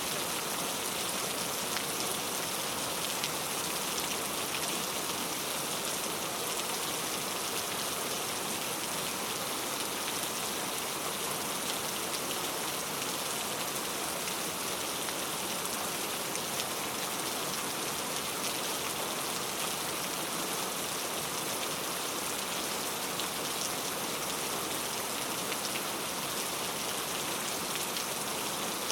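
Steady rain falling, a dense even hiss of drops with fine pattering on a surface.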